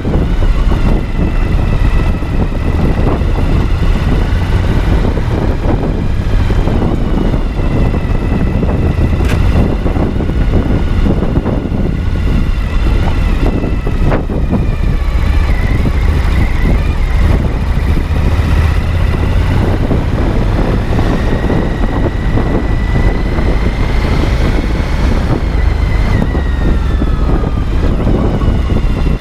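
Suzuki V-Strom 1050XT's V-twin engine running steadily, with a faint whine that drifts slowly up and down in pitch.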